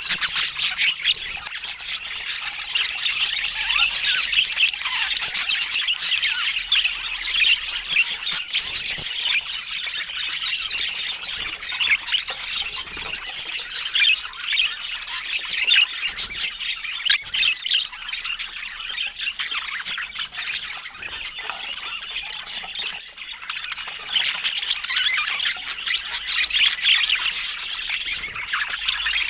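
Budgerigars chattering continuously, a dense run of overlapping short chirps, warbles and squawks.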